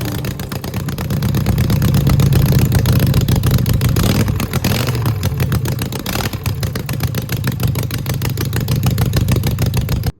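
2009 Harley-Davidson Sportster XL883L's 883 cc V-twin running through its exhaust, a loud, fast, even pulsing that swells over the first couple of seconds and then holds steady. It cuts off suddenly just before the end.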